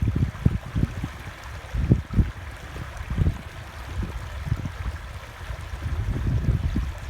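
River water flowing with a steady rushing hiss, overlaid by irregular low rumbles that come and go every second or so and are the loudest part.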